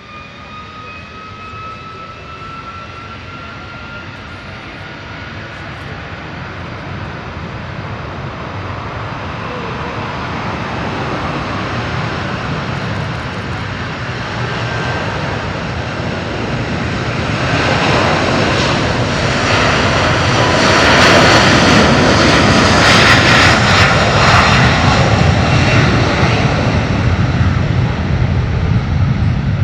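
Twin-engine jet airliner taking off: its engines' whine rises in pitch at first, then the engine noise builds steadily to its loudest about two-thirds of the way through and eases slightly near the end as the aircraft passes.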